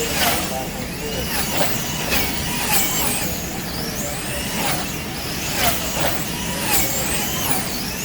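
Several racing slot cars' small electric motors whining together, their pitch sweeping up and down over and over as the cars speed up and slow down.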